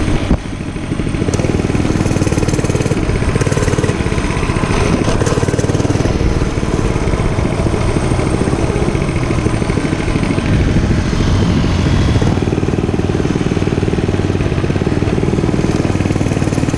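Dirt bike engine running steadily, its level dipping briefly about half a second in.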